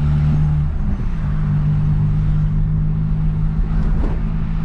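Car engine running at a steady speed, a low drone that shifts in pitch about a second in and then holds.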